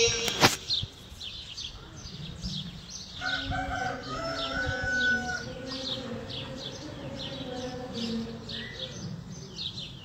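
Small birds chirping, a steady run of short falling chirps, about two or three a second. A sharp click comes just after the start, and a longer wavering pitched call sounds between about three and five seconds in.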